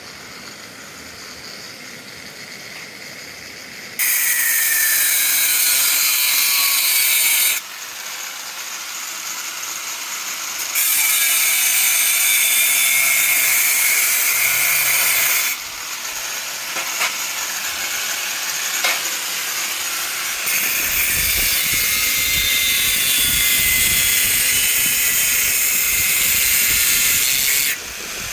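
Three long bursts of harsh, hissing metalwork on steel, each starting and stopping abruptly, with short quieter gaps between them. A low rumble runs under the last and longest burst.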